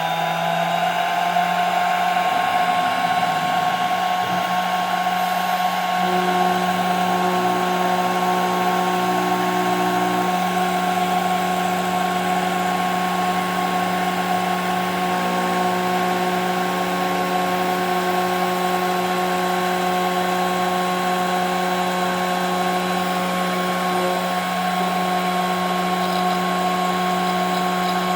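CNC router spindle running at high speed while milling 5 mm plexiglass: a steady high whine over a low hum. The pitch dips slightly right at the start, then holds.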